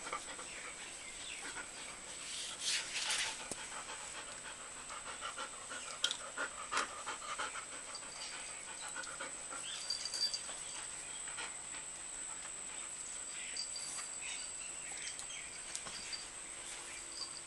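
A dog panting, with scattered short scuffling and sniffing noises, loudest about three and six to seven seconds in. A steady high-pitched whine runs underneath.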